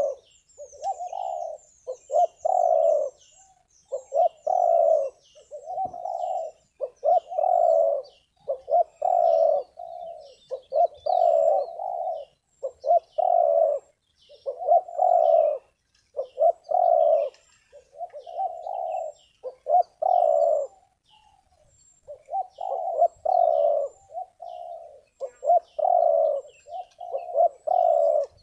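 Spotted dove (terkukur) cooing over and over in phrases of several coos, one after another with only short gaps, pausing briefly about two thirds of the way through. Faint high chirps sound in the background.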